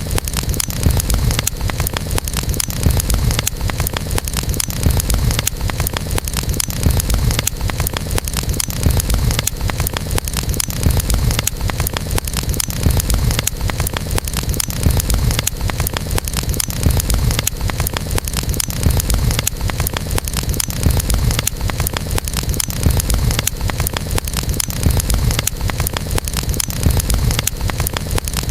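Campfire burning, with dense crackling and popping over a steady low rumble of the flames.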